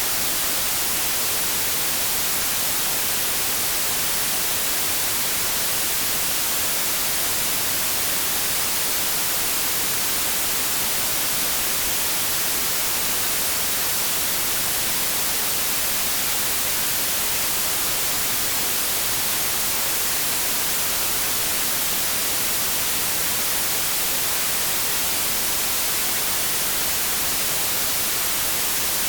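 Continuous synthetic white noise: a steady, unchanging hiss, brightest in the highs.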